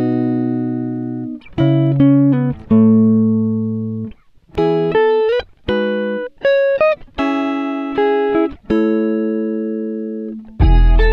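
Background music: clean plucked guitar, chords and single notes each struck and left to ring and fade, in short phrases with brief pauses between them.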